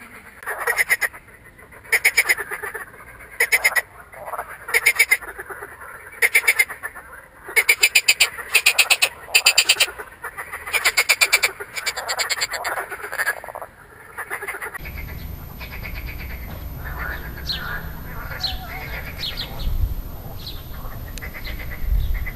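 Frogs, tentatively marsh frogs (Pelophylax ridibundus), croaking in repeated calls of rapid, rattling pulses, each call lasting half a second to two seconds. About fifteen seconds in, the calls turn fainter and shorter over a steady low rumble.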